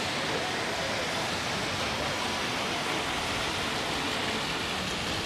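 Steady typhoon rain falling, an even hiss with no breaks.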